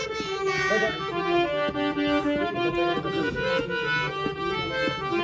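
Reed instrument playing a folk melody in held notes that step from one pitch to the next.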